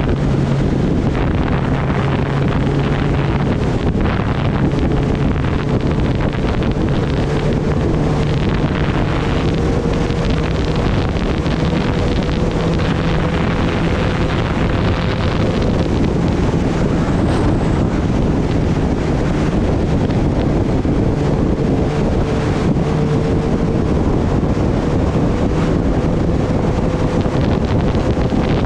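Heavy wind rush on the microphone from riding at speed on a Kawasaki Ninja ZX-10R, with the bike's inline-four engine humming steadily underneath. Its pitch creeps up slightly over the first half, then holds.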